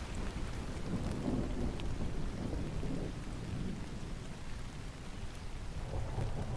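Steady rain with a low rumble of distant thunder that swells about a second in and again near the end.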